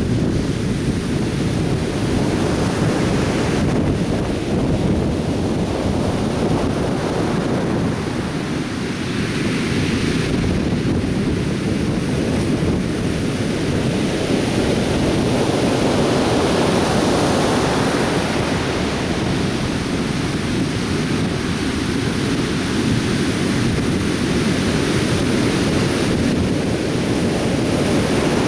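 Atlantic Ocean surf breaking and washing on a beach, a steady rush that swells and eases every few seconds, with wind buffeting the microphone.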